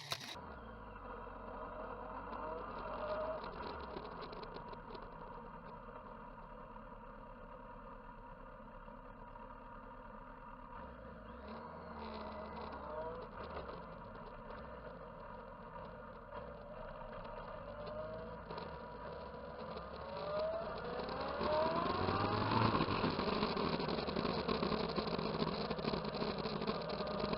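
Motorcycle engines running, with several rising revs as they accelerate, and louder toward the end.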